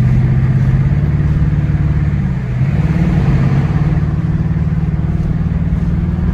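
Car engine running with road noise, its engine note holding steady and then stepping up in pitch about halfway through before dropping near the end.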